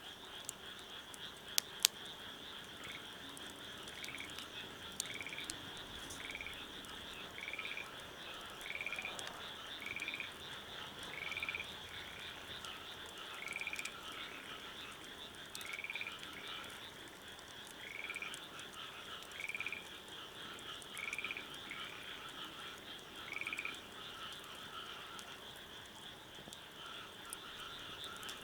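Frogs calling: a steady high chorus, over which one frog repeats a short call about every one and a half seconds, stopping about three quarters of the way through. Two sharp clicks come about two seconds in.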